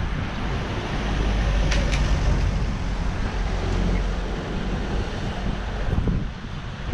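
Wind rushing over a helmet-mounted GoPro's microphone while riding: a steady low rumble, with a brief click or rattle about two seconds in.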